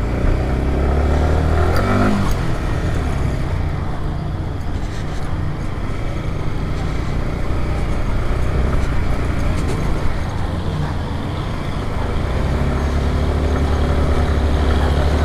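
Motor vehicle running, a steady low rumble with road noise, louder near the start and again near the end.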